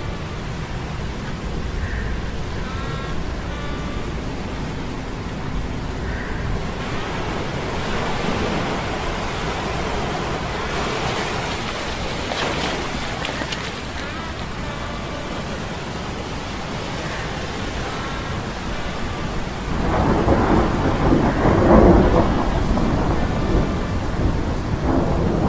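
Storm sound effects of steady rain over a low hum of metal gears, with a louder roll of thunder about twenty seconds in.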